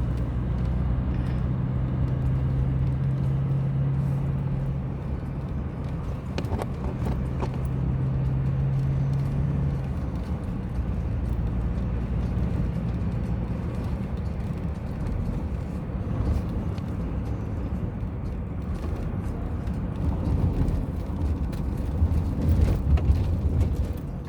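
A motor vehicle running with steady low road rumble. A steady engine hum drops away about ten seconds in, and scattered knocks come through, more of them near the end.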